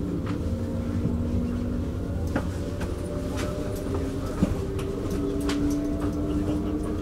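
Stockholm commuter train running, heard from on board: a steady low rumble with a few even electric motor hums, light clicks and rattles now and then, and one sharper knock about four and a half seconds in.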